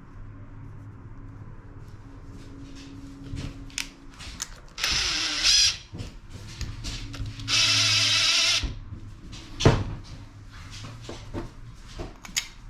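A handheld power tool runs in two short bursts of about a second each, about five and eight seconds in. Knocks and clicks from handling parts come between the bursts, over a steady low hum.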